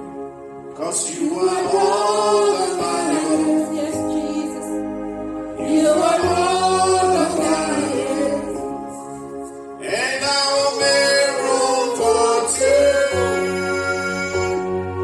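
Gospel worship song: several voices singing together in long, sliding phrases over steady low held notes.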